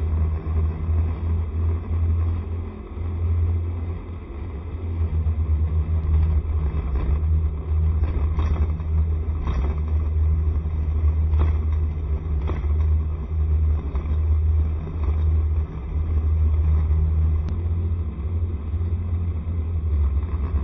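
Honda SCR110 scooter underway, its small single-cylinder four-stroke engine running under a heavy low rumble that wavers in level.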